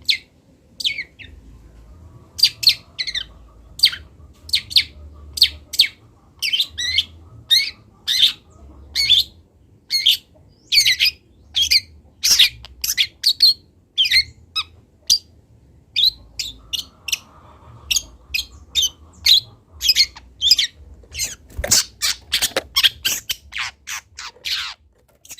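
Juvenile long-tailed shrike calling in a rapid series of short, harsh notes, two or three a second, with a couple of brief pauses: a young bird still learning its song.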